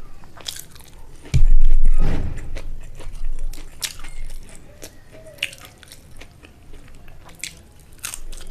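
Close-miked chewing and wet mouth clicks from someone eating rice and egg curry. A loud low thump comes about a second and a half in.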